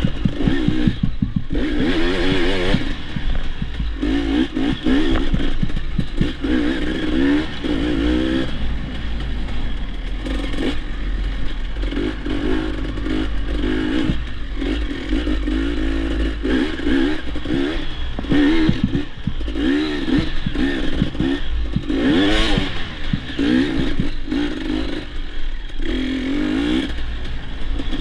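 Dirt bike engine revving up and down again and again as it is ridden, with a constant low rumble and rattling clatter throughout.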